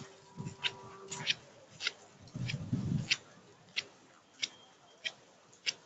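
Sharp ticks repeating at a steady pace, about one every two-thirds of a second, with a short low-pitched noise about two and a half seconds in.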